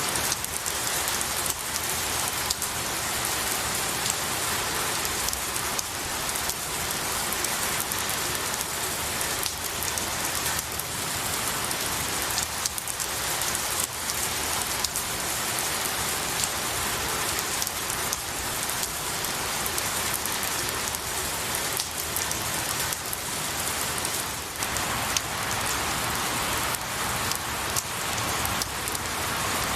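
Steady rain falling on pine needles and trees, a dense even patter with many individual drops ticking through it.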